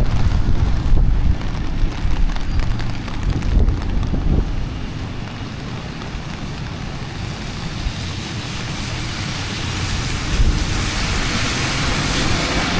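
Rainy city street ambience: wind buffets the microphone in gusts for the first few seconds, then a steady hiss of rain and traffic on the wet street grows slowly toward the end.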